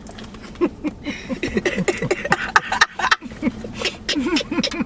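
A man eating while making a string of short wordless 'mmm' hums that swoop up and down, with mouth clicks and smacks in between.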